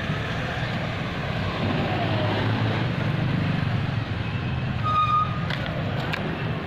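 A car engine idling steadily, a low even rumble. A short steady tone sounds about five seconds in, followed by a couple of sharp clicks.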